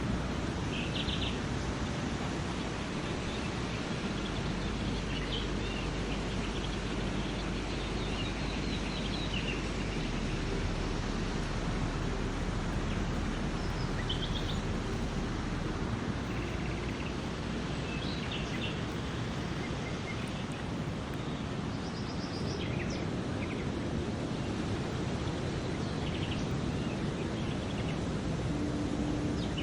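Outdoor ambience: a steady, even background noise with small birds chirping briefly every few seconds.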